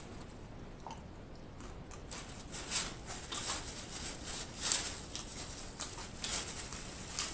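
Close-up chewing of a mouthful of loaded nachos: irregular crisp crunches of tortilla chips, sparse at first and coming thick and louder from about two seconds in.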